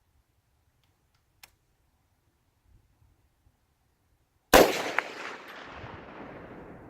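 A single rifle shot about four and a half seconds in, sharp and loud, its echo rolling away over the next two seconds. A faint tick comes earlier.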